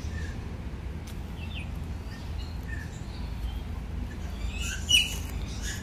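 Birds chirping here and there, short high calls over a steady low background rumble, with a louder call near the end.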